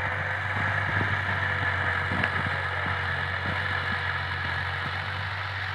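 New Holland Ghazi 480 tractor's diesel engine running steadily under an even, continuous load.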